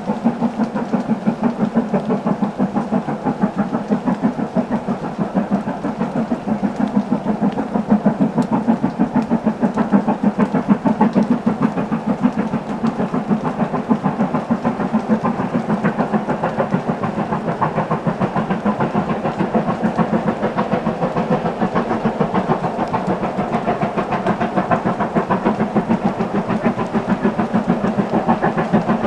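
Steam locomotive working a train, its exhaust beating in a fast, even rhythm.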